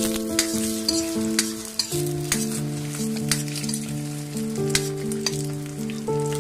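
Egg, sliced onion and garlic sizzling in hot oil in a stainless steel wok as they are stir-fried, with quick scrapes and taps of the spatula on the metal. Background music with a slow melody of held notes plays over it.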